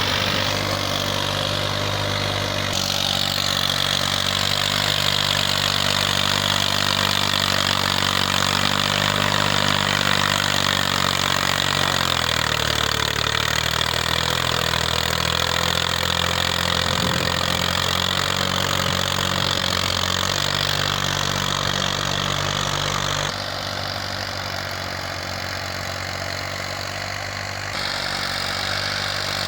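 Massey Ferguson 240 tractor's Perkins three-cylinder diesel engine running steadily. Its note shifts about 12 seconds in and again about 23 seconds in, dropping slightly in loudness at the second shift.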